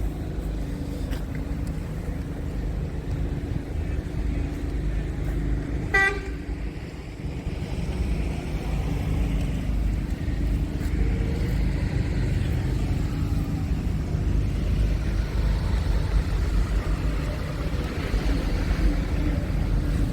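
Scania R460 truck's six-cylinder diesel engine running steadily, with one short blast of the truck's horn about six seconds in.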